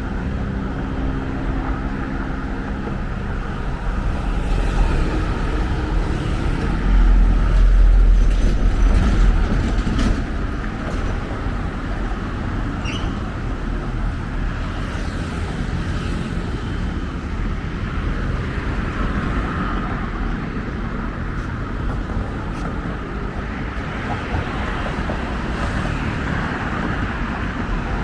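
Steady road traffic noise from passing cars and other motor vehicles, with a louder low rumble as a heavy vehicle goes by about seven to ten seconds in.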